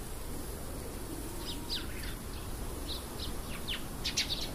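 Small birds chirping in short, high calls, a few falling in pitch, with a quick run of them near the end, over a steady background hiss.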